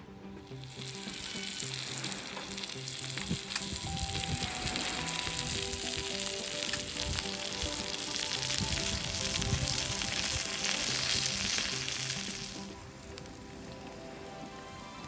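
Chicken pieces and shrimp sizzling on a hot iron griddle plate over a wood fire: a loud, dense hiss with fine crackles that stops abruptly near the end. Soft background music plays underneath.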